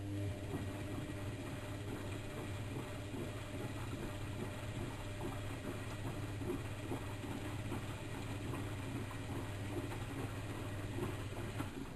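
Bauknecht WAK7760 front-loading washing machine on a coloureds 40 °C wash, its motor turning the drum for one tumble: a steady hum with laundry and water sloshing and knocking inside. It starts at the beginning and stops just before the end.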